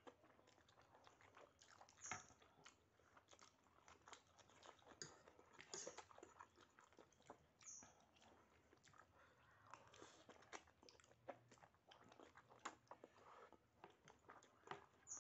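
A person chewing and biting food: faint, irregular mouth clicks and crunches.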